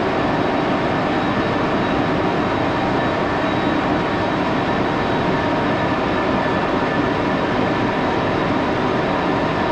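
Axelson metal lathe running steadily while a small part is cleaned up in a light cut, an even machine noise with a faint steady whine.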